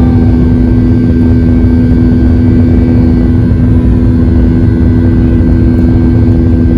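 Steady drone of an aircraft in flight as heard inside the cabin: a loud, even low rumble with a constant hum running through it.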